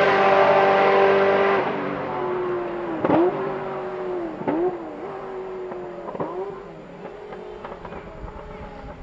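Ferrari sports car engine running loud at high, steady revs, then fading as the car moves away. Its note dips briefly and recovers three times.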